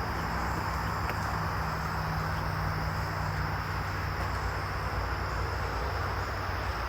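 Steady outdoor ambience: a constant high insect drone over a low steady hum, with no change throughout.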